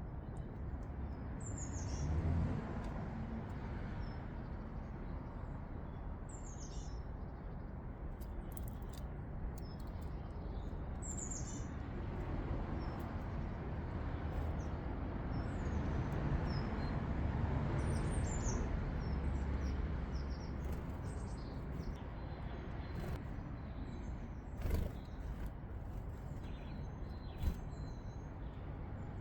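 Small garden birds chirping: short, high, downward-sliding call notes every few seconds over a steady low background rumble, with a couple of sharp knocks near the end.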